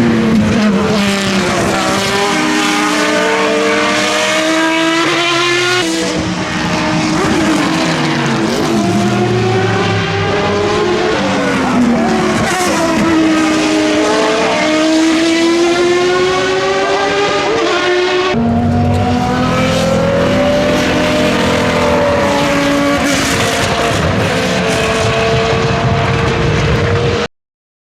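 Jaguar XJR-8's 7-litre V12 racing engine at full race pace, revving up through the gears and sweeping back down. Several passages are joined by abrupt cuts, and the sound cuts off suddenly near the end.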